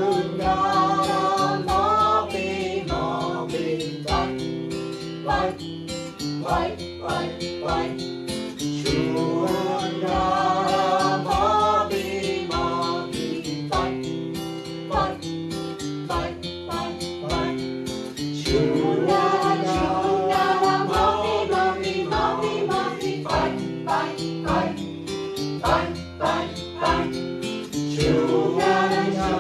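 Choir singing a short repeated chant in the Yugambeh language, with instrumental accompaniment.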